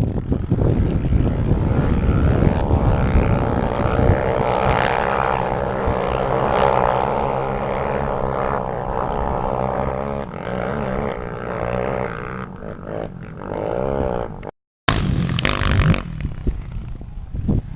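Off-road race engine running hard, its pitch rising and falling as the throttle is worked. The sound cuts out completely for a moment about fifteen seconds in.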